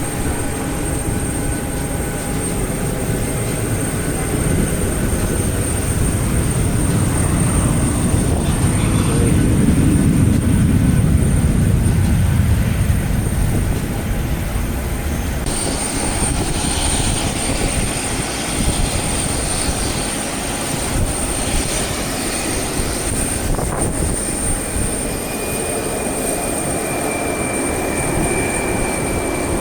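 Airport apron noise: a steady rumble of aircraft and vehicle engines with a high, steady whine over it. The rumble swells for a few seconds near the middle, and the sound changes abruptly twice.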